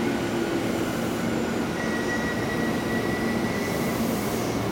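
Tobu 10030-series electric train running into the platform and slowing to a stop, with a steady rumble of wheels and motors and a thin, high, steady squeal in the middle of the approach.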